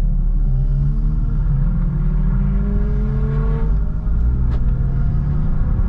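Car engine running under acceleration, its pitch climbing slowly, with one brief drop in level about four seconds in.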